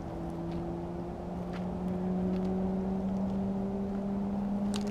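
An engine humming steadily in the distance, its pitch rising slowly, with a few faint clicks over it.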